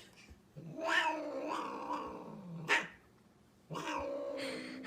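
A cat yowling: two long drawn-out calls with a short pause between them.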